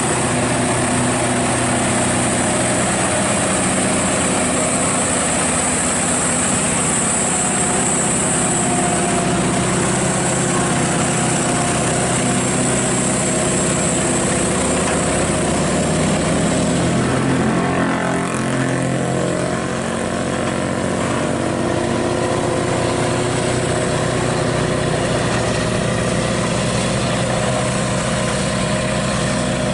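Truck engine idling steadily, with a brief wavering in its pitch about eighteen seconds in.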